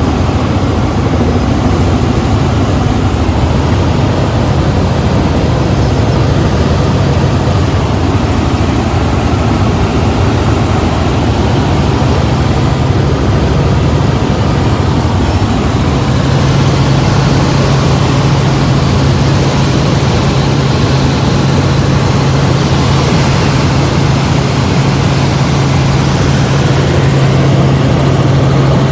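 Helicopter in flight, heard on board: a loud, steady drone of engine and rotor with a strong low hum that grows stronger about halfway through.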